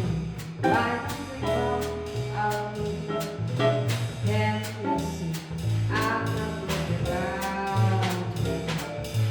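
Jazz quartet playing: a horn melody with sliding notes over a bass line that changes note every half second or so, with a steady pulse of short drum strokes.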